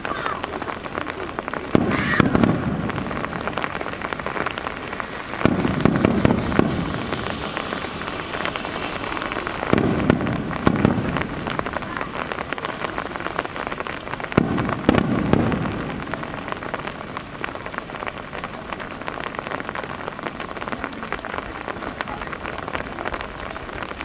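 Steady rain hiss, with four aerial firework shells bursting as sudden booms, each rumbling on for a second or two, about two, five, ten and fourteen seconds in.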